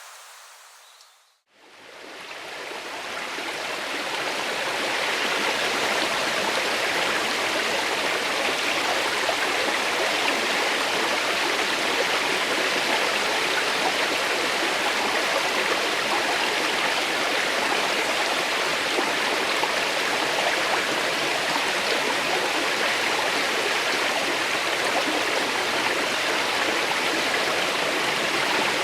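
Running water flowing steadily, a continuous rushing like a small stream or channel. It fades in over the first few seconds after a brief drop to near silence.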